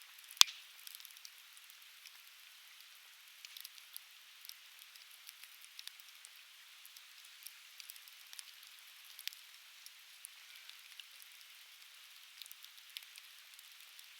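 Coniferous firewood burning in a campfire, crackling with scattered sharp pops over a steady hiss. One much louder pop comes about half a second in.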